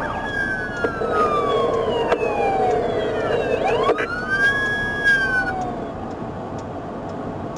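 Police car siren wailing: a slow falling sweep over about three seconds, then a rise that holds high and fades out after about five and a half seconds. A steady lower tone runs under it for the first four seconds.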